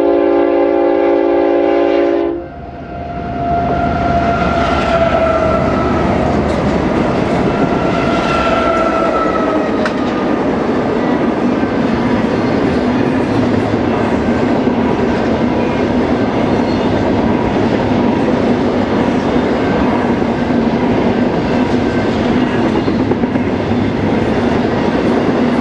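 BNSF freight locomotive's air horn sounding a chord that cuts off about two seconds in, then the train rolling past loudly with a steady rumble and clatter of wheels over the rails. Two short whines slide down in pitch as the locomotives go by.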